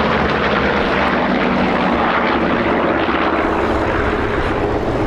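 Corsair fighters' Pratt & Whitney R-2800 radial piston engines running loud and steady as the aircraft fly past, a continuous propeller-driven drone.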